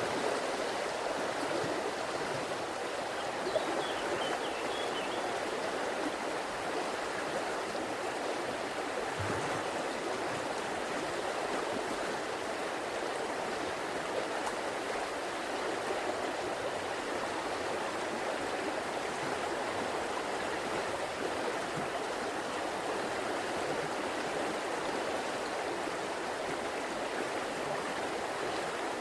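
River water flowing, a steady, unbroken sound of running water.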